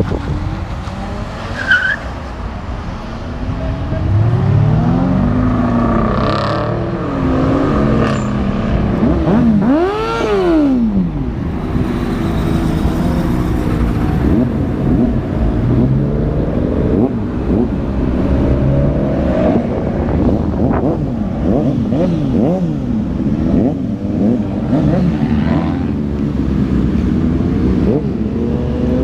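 Several cars' engines revving and accelerating past one after another, their pitches rising and falling over each other, with one sharp rev up and back down about ten seconds in.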